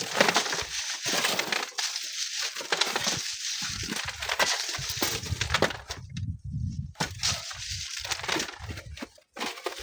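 Sand and small stones crackling and trickling down a sand cliff face. From about halfway through, wind gusts rumble against the microphone.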